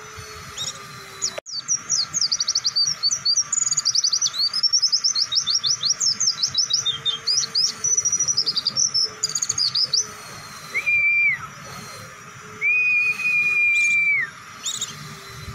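White-eye (pleci) singing a long, fast burst of high twittering chirps, then two long level whistles.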